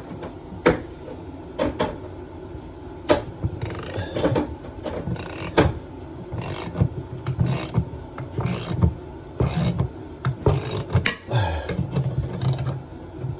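Ratcheting wrench clicking in repeated strokes, roughly one a second and unevenly spaced, with metallic knocks between them. It is being cranked against a tight compression ring stuck on a toilet supply pipe.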